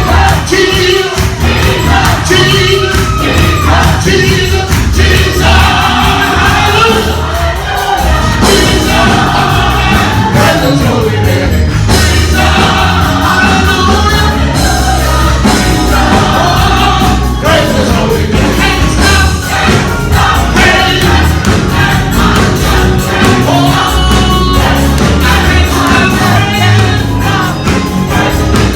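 Gospel music: a choir singing over a band with a strong, steady beat.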